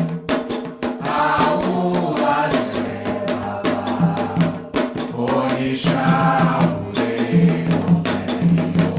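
Afro-Brazilian religious chant for the orixás: voices singing in call-like phrases over hand drums and percussion keeping a steady, dense rhythm.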